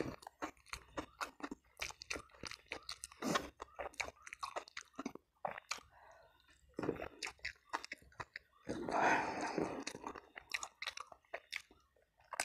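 Close-up sounds of a person chewing and crunching food, with wet mouth clicks and short crackly bites in quick succession. About nine seconds in there is a louder, noisier stretch lasting about a second.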